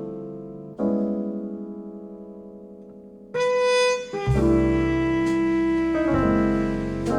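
Recorded music played through a pair of Visaton FR10 4-inch full-range drivers in small bass-reflex cabinets. A piano chord struck about a second in rings and slowly fades. About halfway through, fuller music with bass and long held notes comes in.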